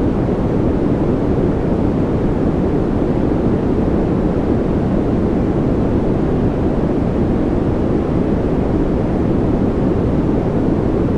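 Continuous white-noise track for sleep, a deep, muffled hiss weighted toward the low end, unchanging and without rhythm.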